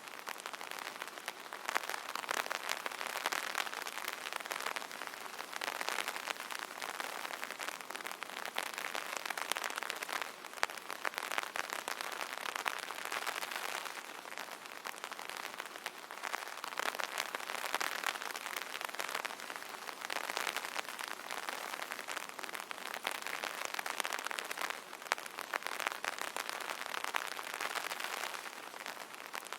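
Rain pattering steadily on an umbrella canopy, dense drops that swell and ease in intensity every few seconds.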